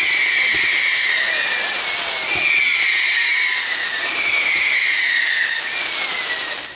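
A firework sends out a loud continuous hiss, overlaid by a shrill whistle that repeats about every second and a half, each one falling a little in pitch. The sound cuts off abruptly near the end.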